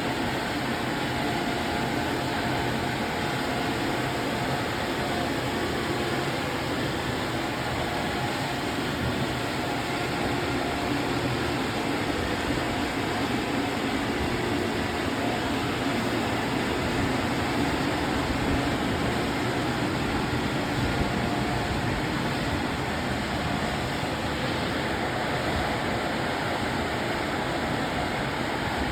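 Laserwash touchless car wash running its air dryer blowers together with the spot-free rinse: a steady, even rush of blown air and spray with a faint hum, unchanging throughout.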